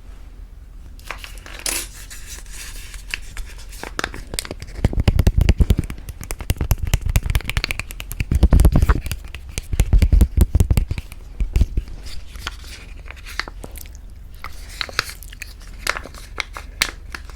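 Close-miked crinkling and tearing of food packaging, a dense run of crackles with several louder bursts of handling in the middle.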